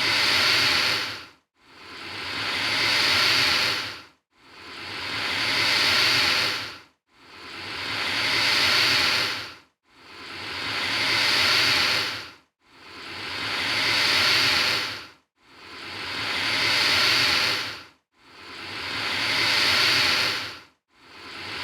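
Alligator hissing: one drawn-out hiss that swells and fades, repeated identically about every three seconds, roughly eight times.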